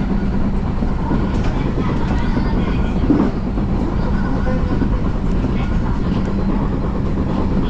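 Odakyu Line electric commuter train running along the track, a steady rumble of wheels on rails heard from on board, with one brief louder knock about three seconds in.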